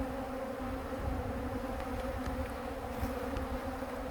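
Honey bee swarm buzzing, a steady, continuous hum from thousands of bees clustered and spread out in the open.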